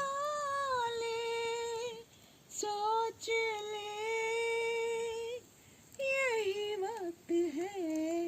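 A woman singing in a high voice: long held notes of two to three seconds each, sliding gently in pitch, with short breaths between phrases.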